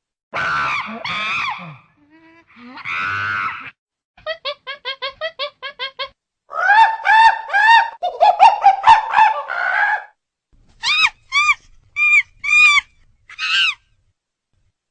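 Chimpanzee calling: two drawn-out hoots, then a quick run of short panting calls about six a second, then louder shrieking calls, and a few separate shrieks near the end.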